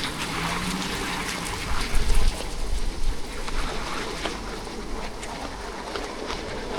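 Steady rain falling, an even hiss of water with scattered ticks of drops, and a few low thumps about two seconds in.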